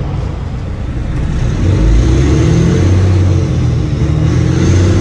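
Semi-truck diesel engine pulling under load, growing louder about a second in and then holding steady, with a faint high whine above it.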